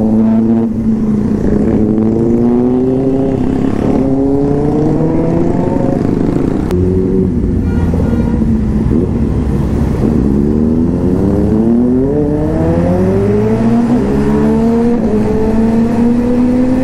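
Motorcycle engine running and being revved, its pitch climbing several times and then dropping back.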